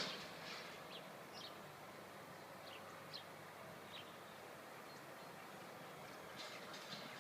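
Faint steady background noise with scattered short, high bird chirps about once a second, a few closer together near the end.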